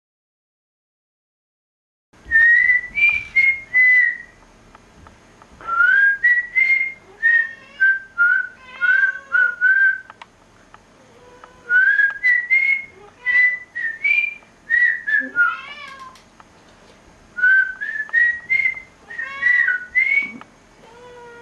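A whistled tune in short phrases of clear notes, starting about two seconds in. A cat meows faintly now and then underneath.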